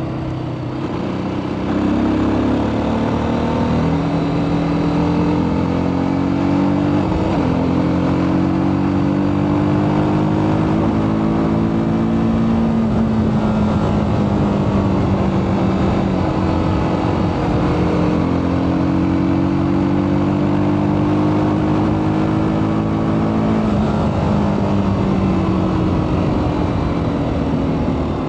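TVS Apache RTR 310's single-cylinder engine through its stock exhaust, its pitch climbing slowly and dropping back several times as the engine is worked through its revs.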